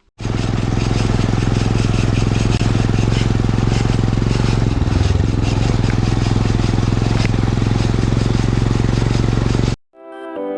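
Royal Enfield Himalayan's single-cylinder engine running at a steady speed as the motorcycle is ridden, with a steady hiss over it. The sound starts abruptly and cuts off suddenly near the end.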